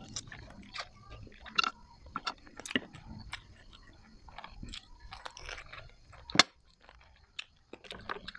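Chewing and biting of street food close to the microphone, with many small scattered crackles and clicks. One sharper click comes about six and a half seconds in.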